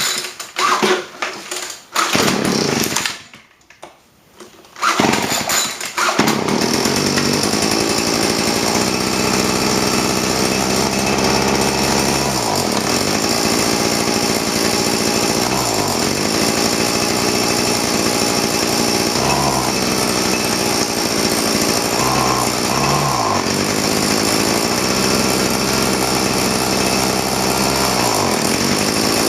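A 31cc two-stroke leaf blower and shredder vac is cold-started: a few seconds of sputtering and broken firing, then the engine catches about six seconds in and runs steadily. Its speed dips briefly and recovers several times.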